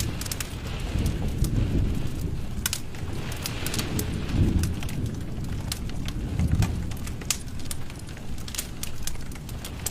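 Wood fire in a fireplace crackling, with sharp pops scattered throughout over a low rumble of flame that swells a few times.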